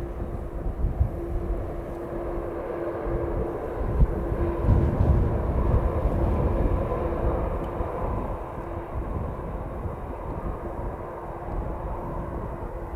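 Boeing 767 jet engines running steadily with a faint intermittent hum. Strong gusts of wind buffet the microphone, loudest about four to six seconds in.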